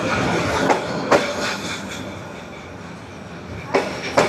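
Railway carriages rolling past at close range, with a steady rumble and sharp clacks of the wheels over the rail joints: a few single knocks and a close pair near the end.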